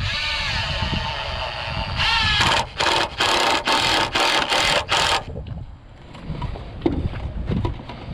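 Handheld power drill/driver motor running, a steady pull of about two seconds and then a quick series of about six short trigger bursts, typical of driving screws into wood. Faint knocks follow in the last seconds.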